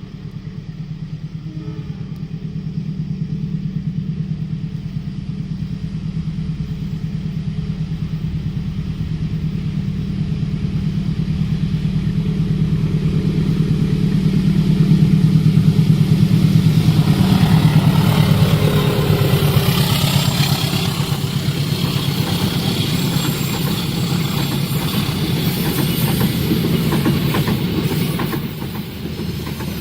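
Diesel-hauled train approaching and passing a level crossing: a steady low engine hum grows louder, then from about halfway the clatter and rumble of wheels and carriages on the rails build up and carry on to the end.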